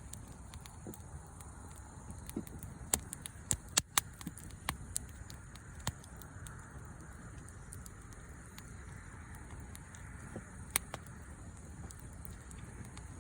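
Wood bonfire crackling: irregular sharp pops over a low steady rumble, most of them bunched about three to six seconds in and one more a little before the end.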